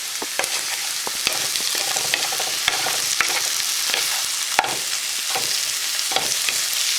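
Onions with garlic and ginger sautéing in oil in a pan, sizzling steadily as they brown, with scattered sharp clicks.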